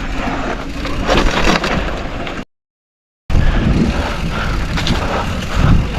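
Mountain bike rolling over a rough trail: tyre noise and a steady low rumble with frequent rattling clicks and knocks from the bike. The sound cuts out completely for nearly a second midway.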